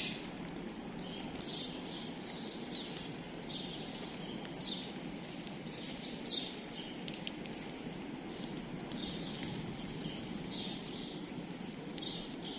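Small birds chirping again and again, short high calls every half second to a second, over a steady low background noise.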